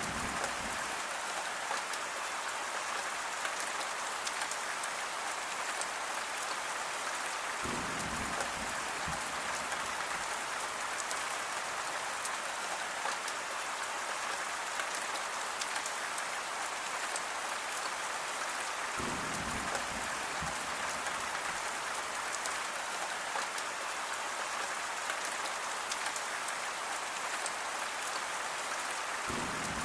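Steady rain falling and pattering on surfaces, an even hiss with no pauses. A brief low rumble comes in a few times, about every ten seconds.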